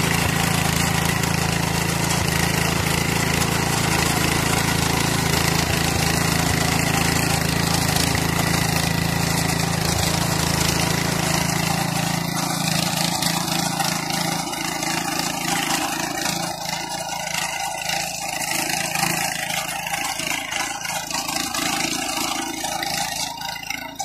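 Varsha power weeder's 5.5 HP, 225 cc petrol engine running steadily. About halfway through, the low steady engine hum drops away and the sound turns rougher and more uneven.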